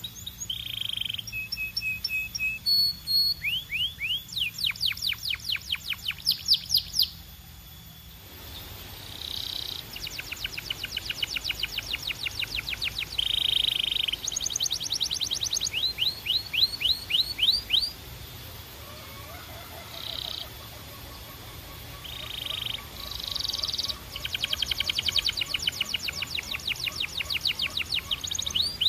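Canary singing in fast trilled phrases: runs of rapid, repeated high notes, each phrase a few seconds long, with short pauses between them.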